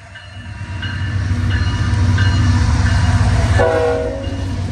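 A train passing close by, with a low rumble that builds over the first two seconds and stays loud. A short horn blast sounds about three and a half seconds in.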